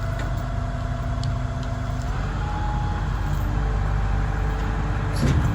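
Heavy diesel engine running steadily, with a slight shift in its tone about two seconds in.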